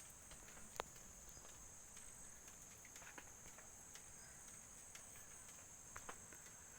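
Faint, steady high-pitched insect chirring, with a few soft clicks.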